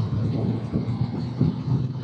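Motorcycle engine running at a steady note while riding along a country road, with wind noise on the microphone.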